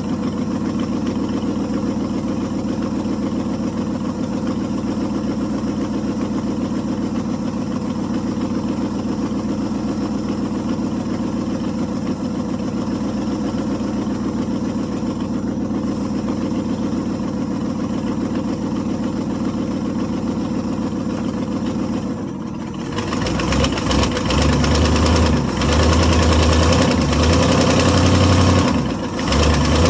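International Harvester 345 V8 in a 1973 International 1210 pickup idling steadily; about three-quarters through, the sound dips briefly, then the engine runs louder and rougher under load as the truck is put in gear to pull forward.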